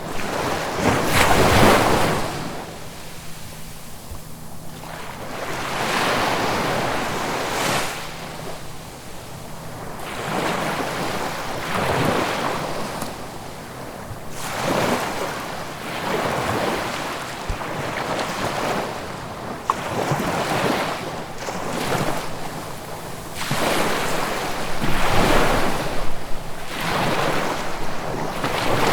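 Ocean waves breaking and washing up on the shore, one surge after another every few seconds.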